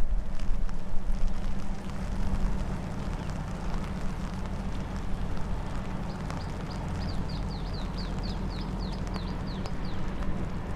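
Steady low rumble with wind on the microphone. From about six seconds in, a bird gives a fast run of short, falling high chirps, about four a second.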